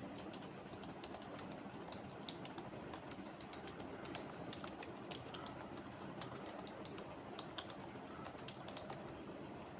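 Typing on a computer keyboard: a steady run of quick, irregular keystroke clicks over constant low background noise.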